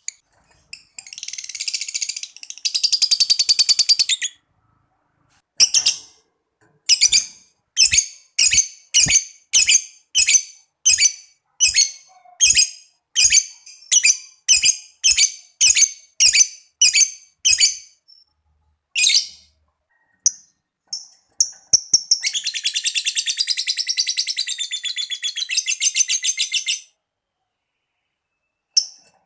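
Lovebird calls: a rapid chattering trill (ngekek) lasting a few seconds, then a long run of separate sharp, high chirps at about two a second, and a second long rapid trill near the end.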